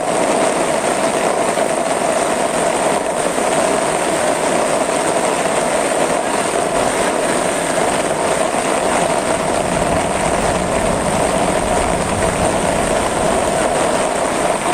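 Steady, unbroken rush of flowing floodwater.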